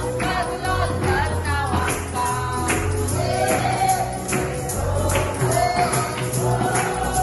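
Gospel choir or congregation singing to a steady beat, with a tambourine shaking and striking in rhythm over a bass accompaniment.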